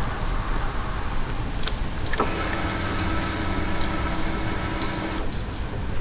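2018 Yamaha MT-09 motorcycle running with a low, steady rumble. A steady whine cuts in suddenly about two seconds in and cuts off again about three seconds later.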